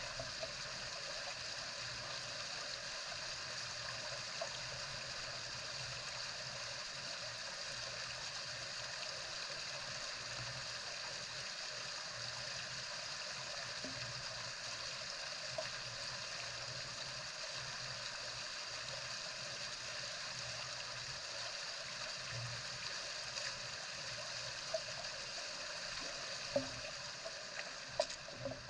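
Steady heavy rain falling. A few short, sharp sounds stand out near the end.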